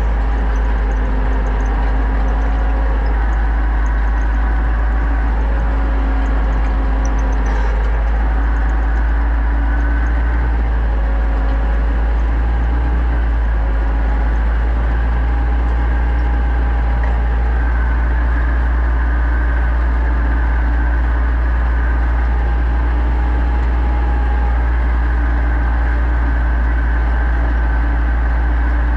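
Pronar 1025A tractor's diesel engine running steadily with a deep, even drone.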